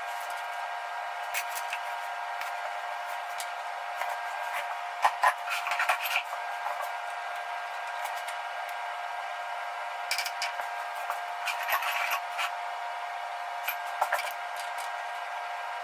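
Scattered sharp clicks and clinks of metal tools and parts being handled, in small clusters, over a steady machine-like hum with a few fixed tones.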